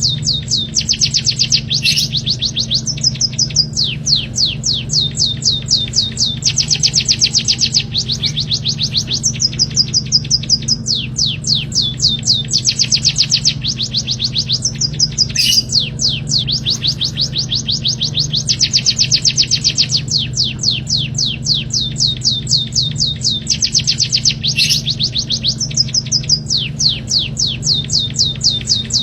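Songbird giving a fast, high trill of rapid sweeping notes, phrase after phrase with short breaks, the same phrases repeating over and over like a looped recording. A steady low hum runs underneath.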